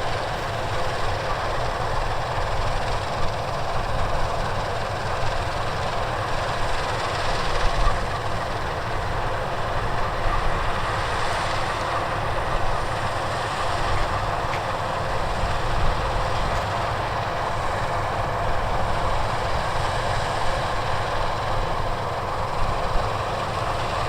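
Heavy wheat-harvest machinery running steadily: an even mechanical rumble and rattle with no breaks.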